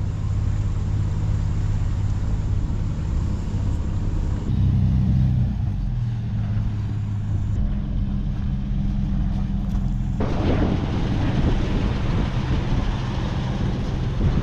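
4WD engine running under steady driving noise, with abrupt changes about four and a half, seven and a half and ten seconds in as the sound switches between clips; the last part carries rougher, wider tyre and wind noise.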